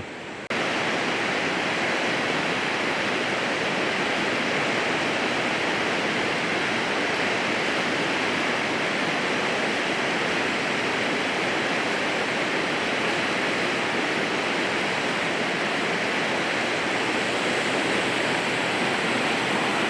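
Rushing river water: a steady, even roar of flowing water with no breaks. It comes in suddenly about half a second in.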